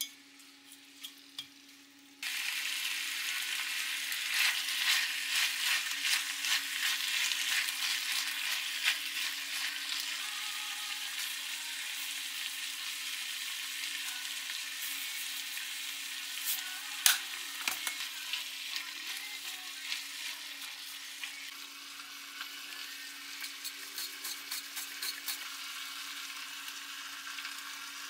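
Pork and vegetables sizzling as they are stir-fried in a cast-iron wok, with chopsticks clicking against the pan. The frying begins abruptly about two seconds in.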